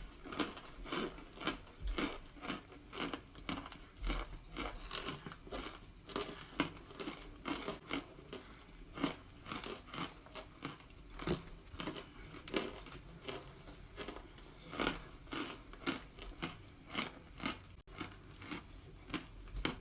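A person biting and chewing hard cornstarch chunks, with a dry crunch coming once or twice a second in an uneven run.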